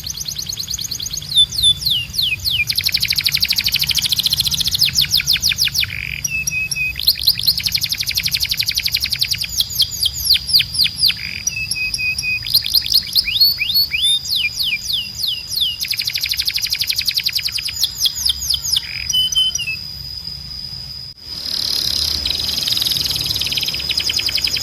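Canary song: fast trills of rapidly repeated downward-sweeping notes, broken by short held notes, over a steady high tone. The singing stops near the end and gives way to a steady hazy high sound.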